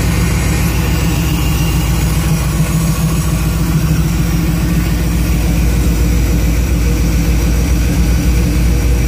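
496 big-block Chevrolet V8 (a 454 with a stroker kit and a big cam) idling steadily with the hood open, warming up with Evans prep fluid in the cooling system.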